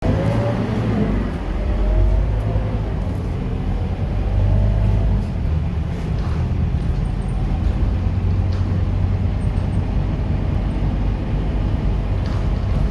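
Scania K230UB Euro 4 bus's five-cylinder diesel engine running with a deep, steady drone, and a faint whine gliding up in pitch during the first few seconds.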